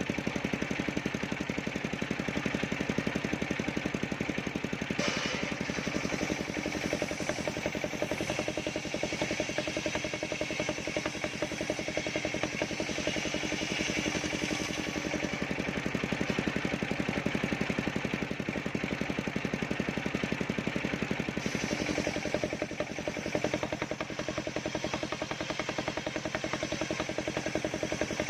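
Engine-driven circular saw rig running steadily, with the rapid even pulse of its engine throughout. From about five seconds in until about twenty-one seconds a higher, hissing sound rides over it, as the blade cuts along a sengon log.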